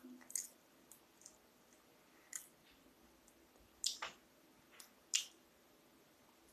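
A person chewing food close to the microphone: several short, wet mouth smacks and clicks, spaced a second or two apart.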